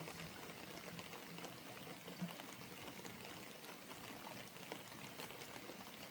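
Faint, steady trickle of liquid being poured, most likely engine oil going into the rebuilt tractor engine.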